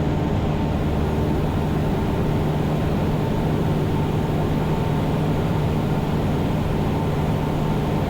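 Cessna 172 Skyhawk's piston engine and propeller running steadily in cruise flight, heard from inside the cabin as a constant drone with a low hum.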